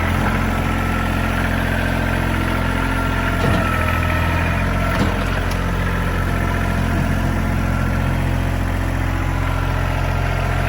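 Kubota tractor's diesel engine idling steadily at an even speed.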